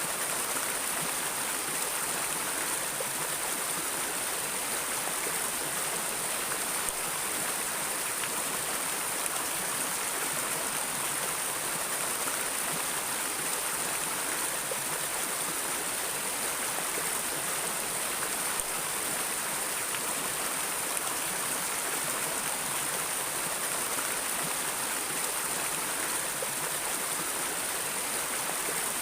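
River or stream water flowing steadily, an even rushing hiss with no pauses.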